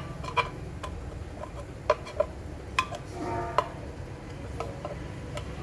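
A string of light, irregular clicks and clinks, like metal parts and hand tools being handled and set down during pump repair work, over a steady low hum.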